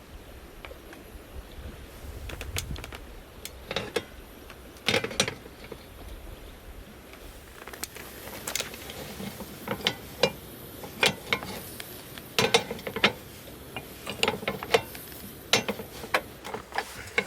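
Irregular sharp clicks and clacks of hard objects being handled, sparse at first and coming thicker and faster over the second half.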